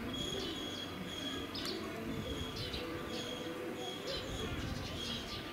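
A small bird chirping over and over, short high notes with a quick upward flick, about two a second, over a low background murmur.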